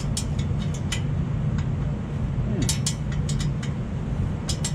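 Sharp metallic clicks and clinks of hand tools, wrenches working on header bolts, coming in quick clusters over a steady low hum.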